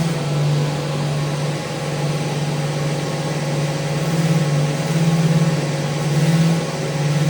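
Electric sander running continuously on a wooden handrail, a steady motor hum with a sanding hiss, swelling and easing every second or so as it is pressed and moved along the rail.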